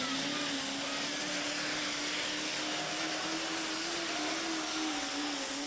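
Engine of a truck- or tractor-pulling vehicle running hard during a pull: a steady, dense noise with one pitch that wavers slowly up and down.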